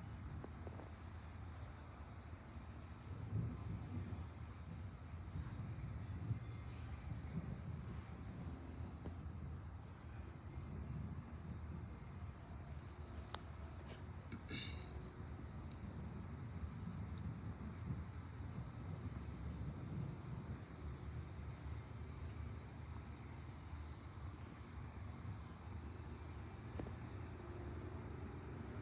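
A steady chorus of night insects, one unbroken high-pitched tone, over a low rumble that swells and fades.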